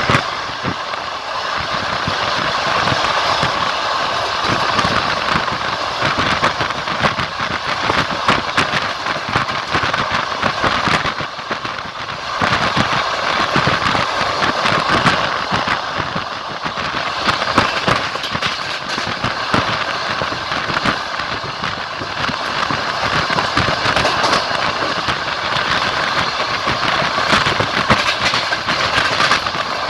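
Wheels of a moving long-distance passenger train running on the rails: a steady rumble and rush of track noise with many irregular clicks and knocks of the wheels over the rails.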